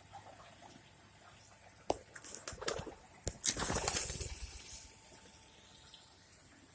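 Pigeons flapping their wings in a coop: a burst of rustling and clattering with a few sharp clicks, loudest about halfway through, then dying away.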